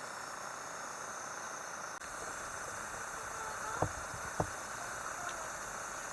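Steady chorus of summer insects with a hiss, and a little past halfway two sharp knocks about half a second apart.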